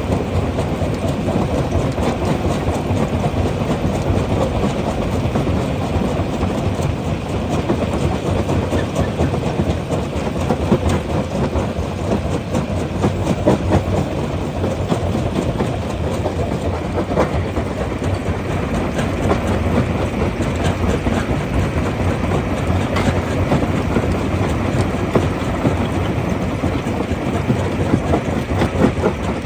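Rock crusher running under load: a steady heavy rumble thick with the rattling and knocking of stone being broken.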